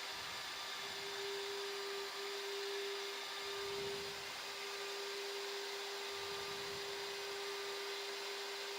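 Steady Boeing 737 flight-deck background noise on approach: an even hiss with a constant humming tone under it, unchanging throughout.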